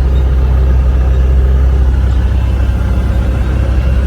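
Magni M24+ Orion autogyro's Rotax 915iS turbocharged four-cylinder engine running steadily with a deep, even drone, heard from on board.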